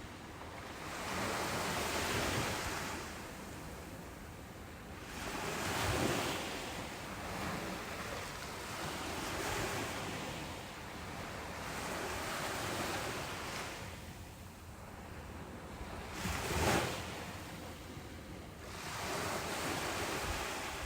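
Ocean waves breaking on a beach, the surf swelling and falling back every few seconds, with one sharper, louder break near the end.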